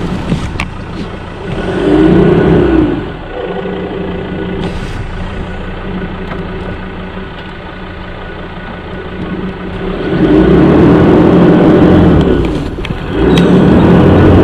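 Four-wheel-drive vehicle's engine running, revved up and back down in three loud surges: about two seconds in, then twice near the end.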